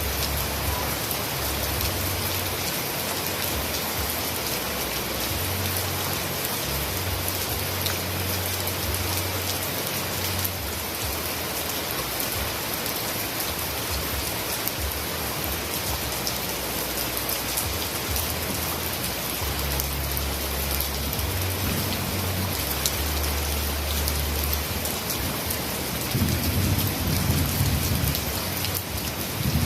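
Heavy rain falling in a steady, dense hiss. A low rumble runs underneath on and off and swells near the end.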